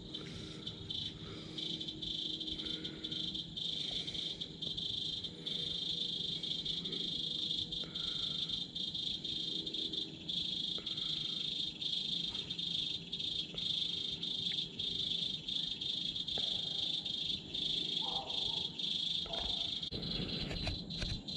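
Crickets chirping, a continuous high-pitched trill with frequent brief breaks.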